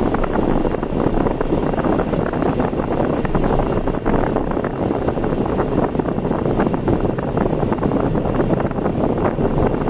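Steady rushing road noise of a car driving, tyre and wind noise with no break.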